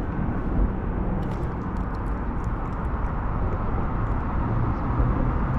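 Steady low outdoor background noise without any clear single source, with a few faint ticks.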